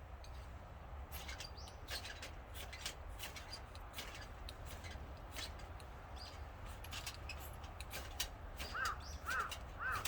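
Campfire kindling crackling with irregular sharp pops, over a low steady rumble. A crow caws three times near the end.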